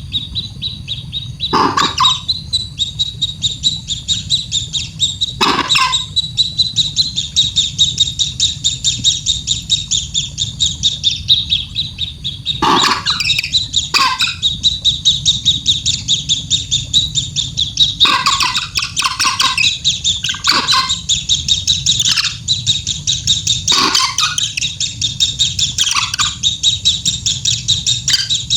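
Baby bird's begging calls: a fast, unbroken string of high chirps, with louder, lower cries breaking in every few seconds, over a steady low hum.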